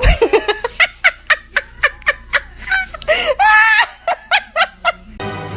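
A person laughing hard in quick, repeated bursts, with one longer drawn-out laugh in the middle; music starts about five seconds in.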